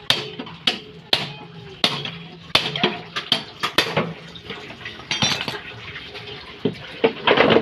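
Irregular series of sharp metallic knocks and clanks, about a dozen, from metal parts of a front-load washing machine's tub assembly being struck and handled, with a denser clatter near the end.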